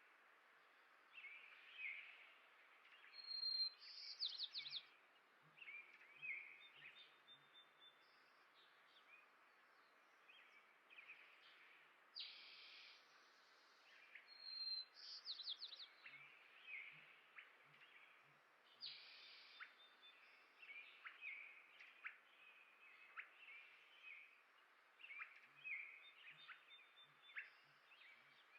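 Songbirds chirping and calling at irregular intervals: many short high chirps and a few brief trills over a faint outdoor hiss.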